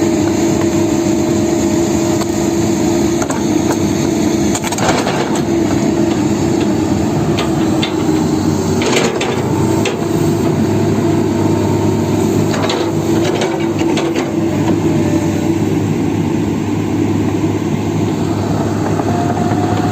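Excavator diesel engine running steadily, with a few sharp metallic knocks about 5, 9, 10 and 13 seconds in.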